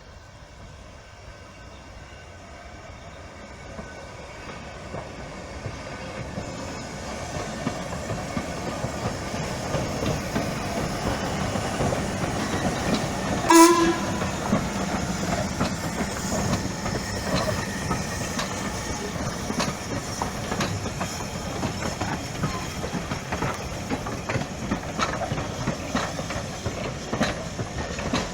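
A heritage train drawing near, growing louder over the first ten seconds, then running past with its wheels clicking over the rail joints. A short, loud warning blast sounds about halfway through.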